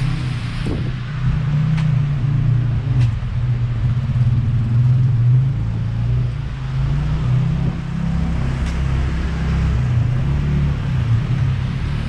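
A motor vehicle running close by: a steady low rumble that wavers slightly, over general street noise.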